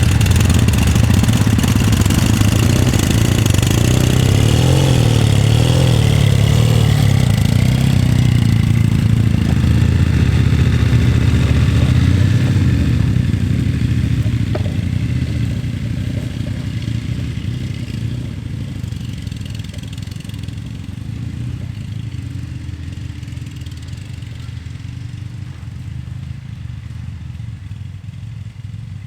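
Motorcycle engines running, their pitch rising and falling with the revs about four to seven seconds in, then fading steadily over the second half as the bikes ride off.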